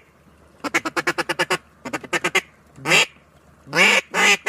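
Mallard duck call blown close by, quacking like a hen: a quick run of about ten short quacks about a second in, then a few more, then single longer quacks near the end.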